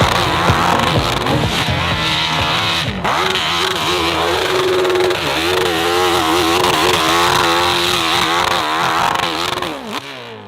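Motocross bike engine revving hard and unevenly, its pitch swinging up and down again and again, then falling away near the end.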